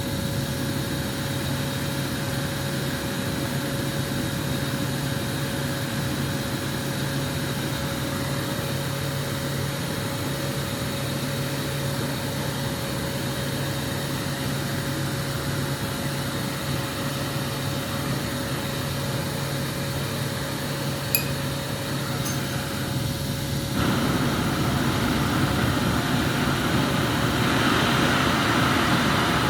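A glassblower's gas burner flame hissing steadily over a constant hum. About two-thirds of the way through, the flame gets louder and brighter, and two faint glass clinks come just before.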